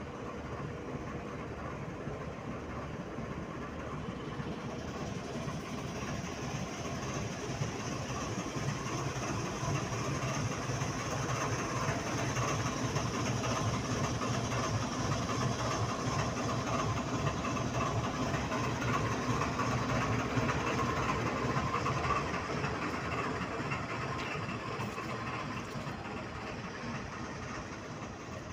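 Diesel locomotive engine running steadily, the noise swelling a little and then easing off again.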